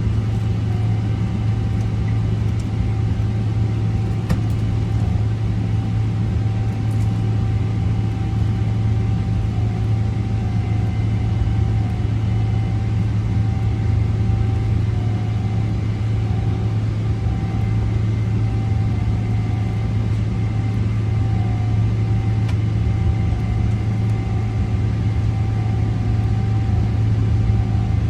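Boeing 777-300 cabin noise from the economy section: the jet engines and airflow giving a steady low rumble, with a few constant whining tones above it.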